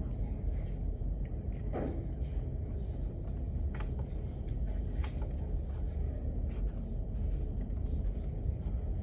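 Library study ambience: a steady low rumble with scattered light clicks of keyboard typing, and one short falling sound about two seconds in.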